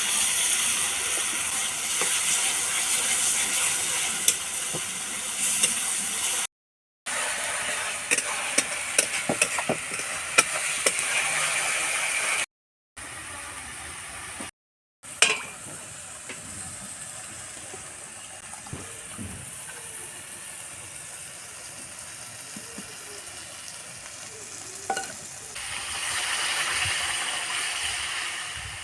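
Whole spices, ginger and garlic sizzling in hot oil in a pan on a wood-fired clay stove, with scattered clicks and scrapes of a spoon stirring. The sizzle is louder in the first part, quieter in the middle, and swells again near the end.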